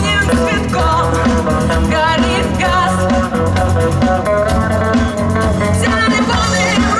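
A rock band playing live on the street: guitars and a drum kit, with a wavering melody line carried over them.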